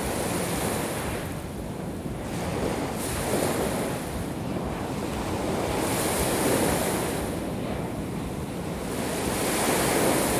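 Black Sea waves breaking and washing up the shore, surging about every three seconds, with wind buffeting the microphone.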